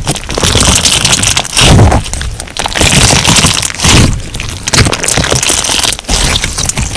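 Crunch slime being squeezed and pressed by hand, giving dense crackling and popping, with louder crunchy squeezes about two and four seconds in.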